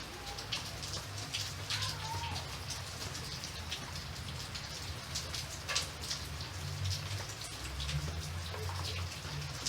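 Rain falling, with many separate drops ticking on a surface over a steady low rumble.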